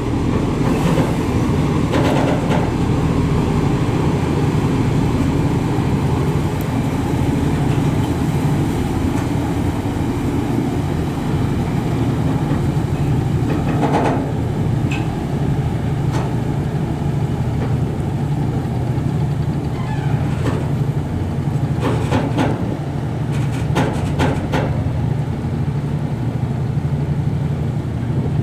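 High-speed passenger ferry's diesel engines running steadily, with a few short knocks or clicks partway through.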